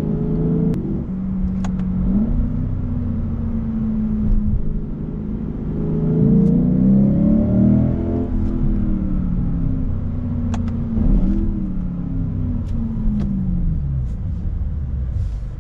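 2023 Lexus IS 500 F Sport's 5.0-litre V8, heard from inside the cabin while driving. Its pitch climbs under throttle about five seconds in, eases off around the middle, and rises briefly once more before settling, over steady tyre and road rumble. The driver says much of what is heard in the cabin is engine sound pumped in through the speakers.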